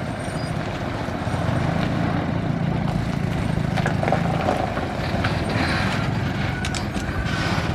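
Heavy diesel engine of a bulldozer running steadily and growing louder about a second and a half in, with clanks and knocks in the second half.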